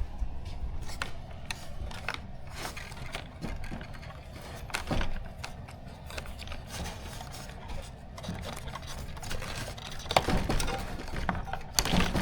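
Small parts and screws of an RC plane kit being handled, with scattered clicks, rattles and light scrapes and a louder cluster of knocks about ten seconds in.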